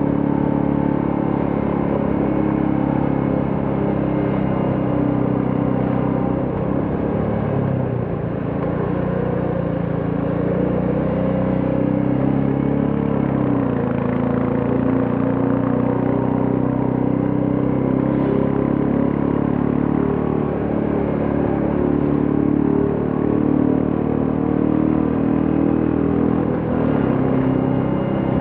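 Royal Enfield Classic 350's single-cylinder engine and exhaust running steadily while riding. The level dips briefly about eight seconds in, and the engine pitch drops a little around thirteen seconds.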